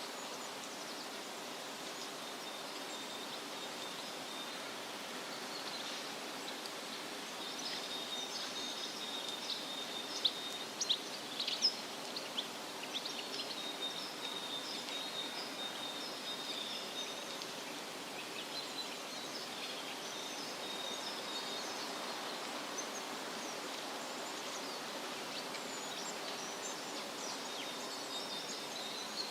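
Steady rustle of wind through leafy trees with small birds chirping and calling throughout, over a thin, high, steady trill. A flurry of sharp, louder chirps comes about a third of the way in.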